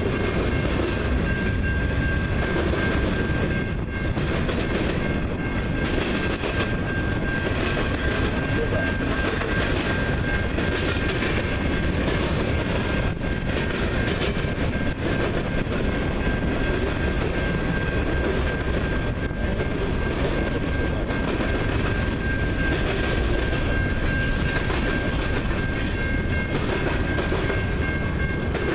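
A train rolling steadily past, its wheels running on the rails, with a steady high-pitched tone sounding throughout.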